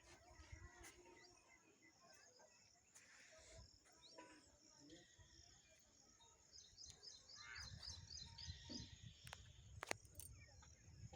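Faint rural outdoor ambience with small birds chirping. In the second half there is a quick run of repeated high chirps, over a low rumble.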